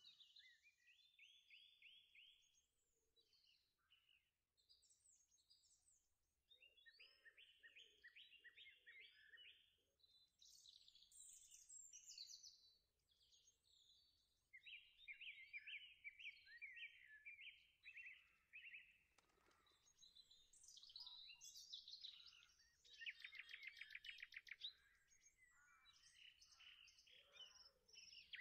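Faint songbirds singing: short chirps and repeated trilled phrases, separated by brief pauses.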